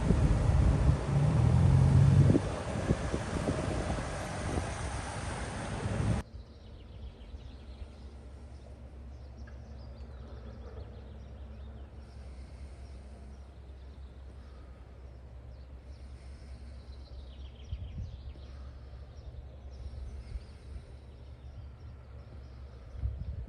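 Tractor engines running close by for about six seconds, loud and throbbing. The sound then cuts off abruptly to a quieter, steady low engine hum.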